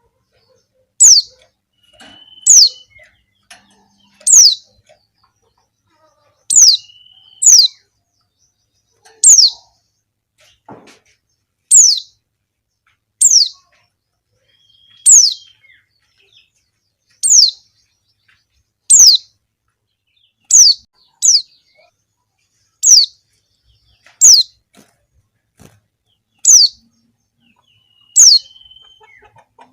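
Female white-eye (pleci) calling: single thin, high notes that slide downward, repeated every second and a half to two seconds. This is the call used as a lure to get white-eyes to respond and sing.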